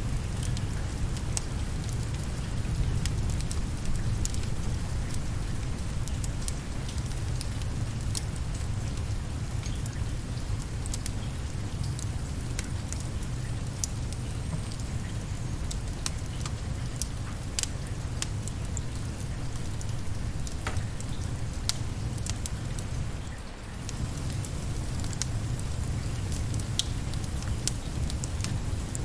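Steady rain with a deep low rumble, overlaid by scattered sharp crackles and pops of a wood fire burning. It briefly dips about three-quarters of the way through.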